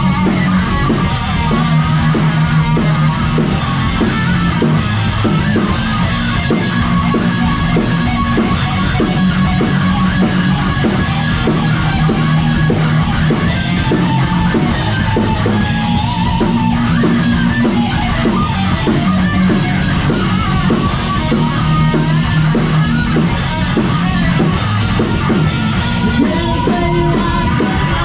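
Heavy metal played on distorted electric guitar, bass and drum kit: a driving riff over fast, steady drumming, with no vocals.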